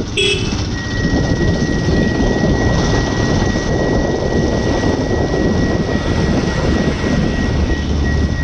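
Steady rumble and wind noise of a vehicle in motion, with a thin, steady high-pitched whine that starts about a second in.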